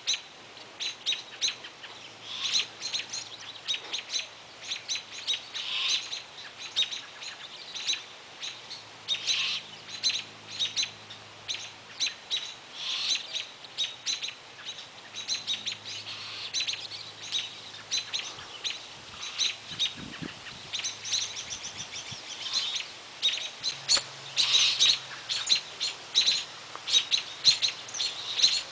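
Small songbirds chirping, many short high chirps a second from several birds, continuing throughout with a few louder flurries.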